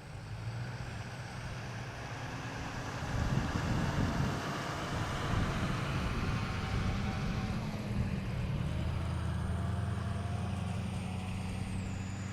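Wind rumbling on the microphone, louder from about three seconds in, with the faint high whine of the UMX Ultrix's twin small electric motors shifting in pitch as the throttle changes on the landing approach.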